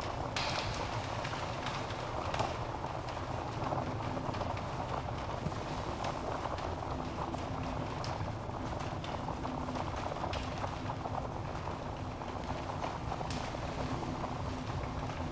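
Log fire burning in a fireplace: a steady low rush of flame with scattered sharp crackles and pops from the burning wood, a few louder pops about two, eight, ten and thirteen seconds in.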